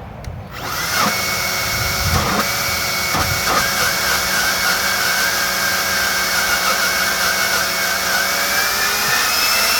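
EGO LB4800 480 CFM cordless leaf blower, running on an aftermarket BLDC motor controller, starts about half a second in with a quick start rather than a soft one. It then runs steadily on a low speed setting with a whine over a rush of air. Its pitch creeps up slightly near the end.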